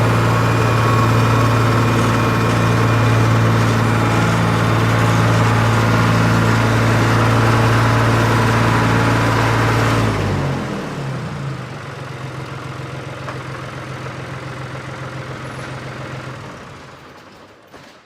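A steady engine hum at one even pitch. About ten seconds in it drops to a quieter, steady running note, which fades away near the end.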